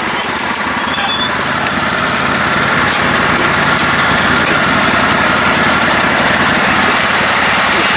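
Engine of a lifted, modified lawn tractor running steadily, with a few light ticks in the first second and a half.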